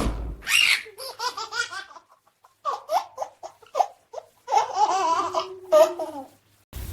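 A small child laughing in several high-pitched bursts. Near the end it cuts to a steady low hum.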